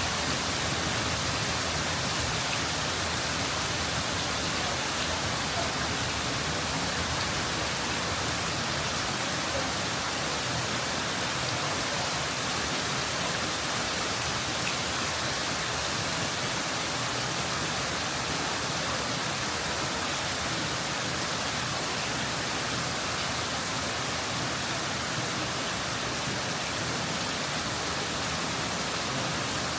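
Hailstorm: hail and heavy rain pelting down in a steady, dense hiss with no let-up.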